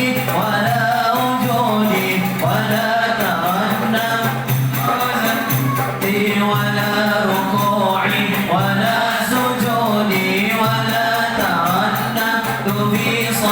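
A group singing an Arabic qasidah, a devotional song in praise of the Prophet, in long melodic phrases, with hand percussion keeping a steady beat.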